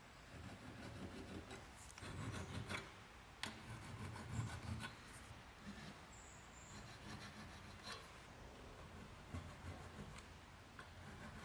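Faint, uneven rubbing and scraping of hand work on a workpiece, broken by a few sharp light clicks.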